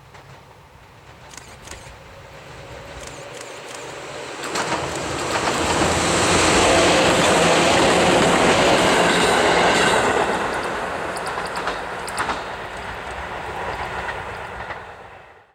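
A Chichibu Railway electric train passing by: it approaches, is loudest for about five seconds as it goes past, then fades as it pulls away. The wheels click over the rail joints as it comes and goes.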